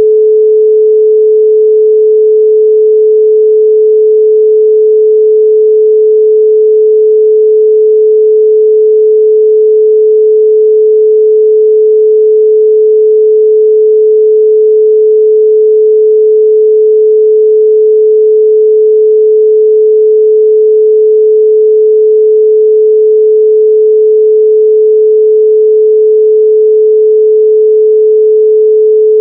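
Steady 432 Hz pure sine tone, one unchanging pitch held without a break.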